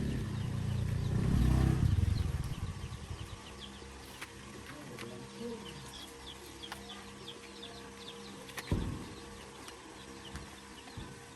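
A low rumble swells and fades over the first three seconds while small birds chirp throughout, with a single knock near the nine-second mark.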